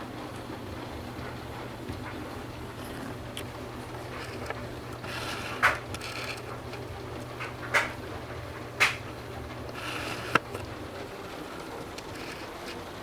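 Torrential rain pouring, with a steady low hum under it that stops about two seconds before the end. Four sharp knocks stand out in the second half.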